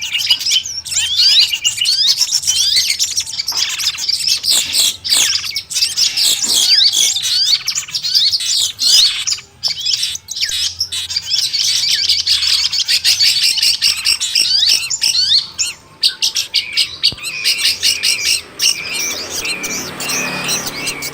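Long-tailed shrike singing a fast, unbroken stream of varied high chirps and whistled trills. A rougher, lower sound joins near the end.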